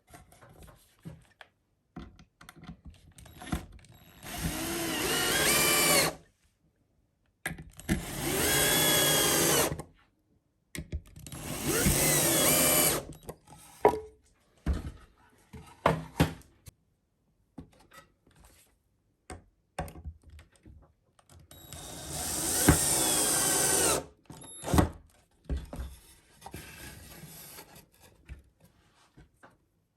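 A power drill run four times for about two seconds each, its motor whine rising as it spins up and stopping abruptly, with small knocks and handling clicks in the pauses between runs.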